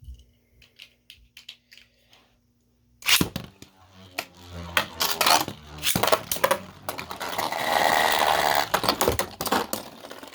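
Plastic spinning tops: a 3D-printed Beyblade and a Super Hyperion launched into a plastic stadium. Faint clicks come first, then a sharp crack as they are launched about three seconds in. They spin and clash with repeated knocks and a stretch of loud grinding scrape, during which the 3D-printed top's teeth break.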